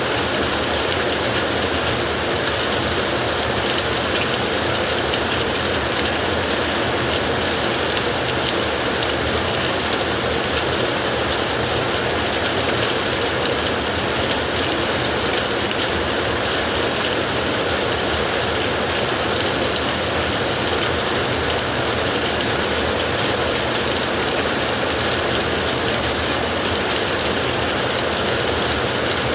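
Heavy rain falling steadily on a tin roof, a dense, even patter of drops with no let-up.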